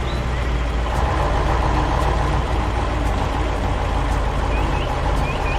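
Heavy construction vehicle engine running steadily with a low rumble, a little louder from about a second in, with short high chirps at the start and again near the end.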